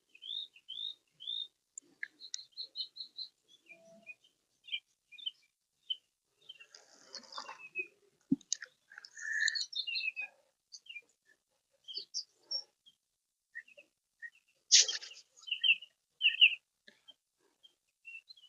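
Small birds chirping, many short high calls scattered throughout. A brief rustle comes about seven seconds in, a sharp knock just after eight seconds, and a short louder rustle near fifteen seconds.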